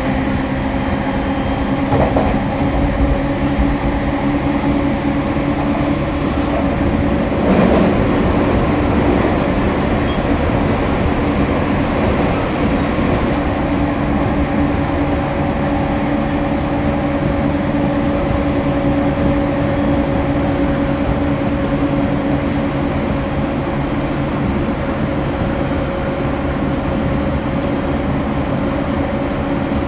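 Running noise inside a JR East E231-series commuter train car: a steady rumble of wheels on rail with a steady hum, briefly louder about two seconds and again about seven and a half seconds in.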